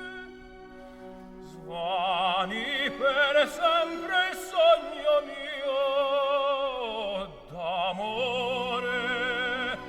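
Background music: an operatic voice singing high held notes with wide vibrato over soft orchestral accompaniment, entering after a second or two of quiet sustained chords. Near the end the voice slides down, drops out briefly, and comes back.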